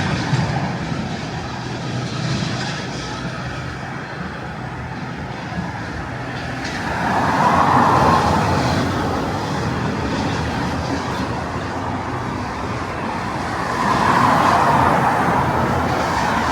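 Street traffic going by, a steady wash of road noise in which vehicles swell past twice, about seven seconds in and again near the end.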